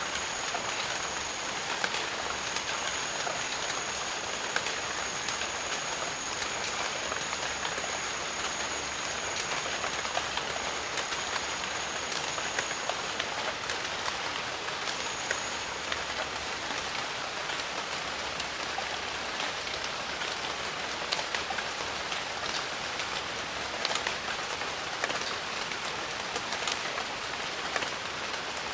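Steady rain falling in jungle, an even hiss with many single drops ticking close by. A thin, high, steady tone sounds over the rain for the first dozen seconds, then cuts out.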